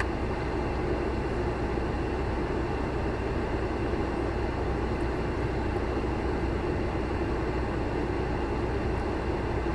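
A car's engine idling, heard inside the cabin as a steady, even rumble and hiss.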